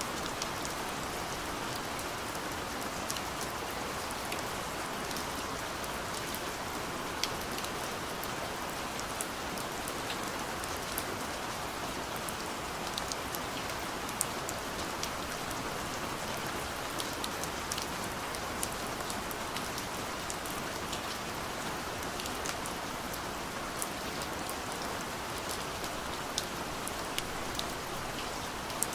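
Steady soft rain falling on a window, an even hiss with many small drops ticking sharply against the glass at irregular moments.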